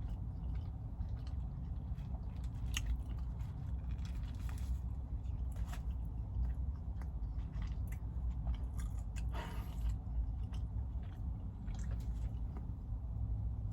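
Close-up chewing and biting of a McDonald's burger: wet mouth sounds and scattered small crunches, with a brief louder rustle-like smear about two-thirds through, over a steady low hum.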